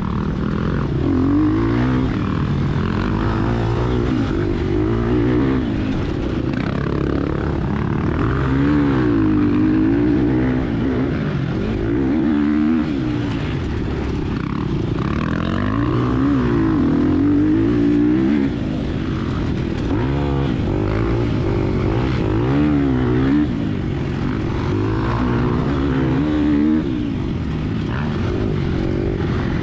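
Gas Gas EX250F four-stroke single-cylinder dirt-bike engine under hard riding, revving up and falling back again and again as the throttle opens and closes through the gears.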